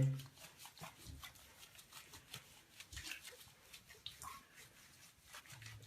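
Soft rustling and scattered small clicks of hands working shampoo lather into a wet dog's coat in a bathtub, the dog shifting about, with a brief faint whine about four seconds in.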